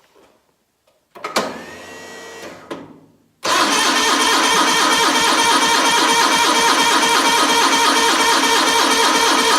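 Cold start of a 1987 John Deere 318's Onan twin-cylinder engine after sitting over a month at −1 degrees: the starter cranks for about two seconds, and a moment later the engine catches and runs steadily at a loud, fast, even beat.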